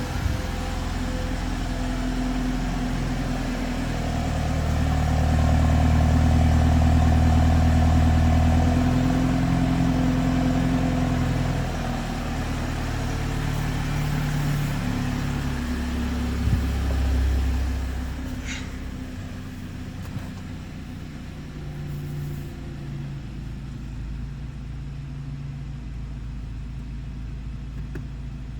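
BMW 330i xDrive's 2.0-litre turbocharged four-cylinder engine idling after a cold start, its steady hum swelling louder for several seconds and then easing back to a quieter, lower idle about eighteen seconds in. A sharp click comes about sixteen seconds in.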